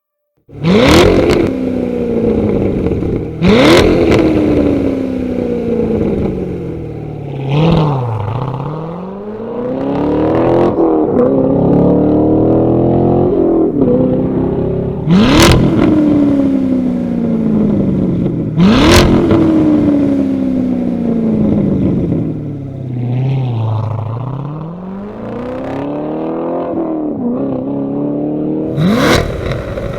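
Chevrolet Corvette C7 Stingray V8 through a Borla valved cat-back exhaust, revved repeatedly. The engine note jumps up sharply and falls slowly away each time, dipping low twice between revs.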